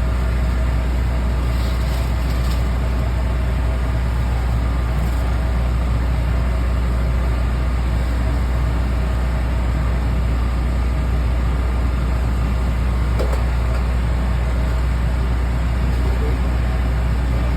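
Steady, unchanging low machine hum, as of a motor running continuously.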